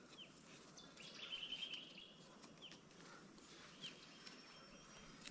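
Faint birdsong: a few short, separate chirps and a brief warbling trill a second or so in, over quiet outdoor background.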